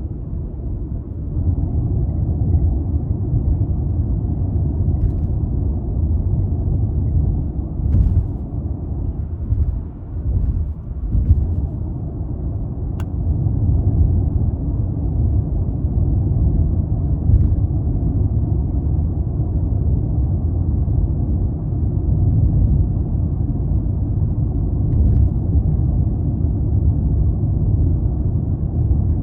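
Toyota Crown Athlete (200 series, 2.5 L V6) driving at steady speed: a continuous low rumble of road and engine noise, easing briefly about ten seconds in, with a few faint ticks.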